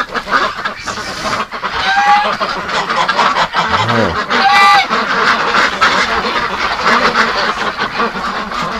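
A flock of domestic geese and ducks calling and honking continuously, with a few louder, clearer honks about two and four and a half seconds in.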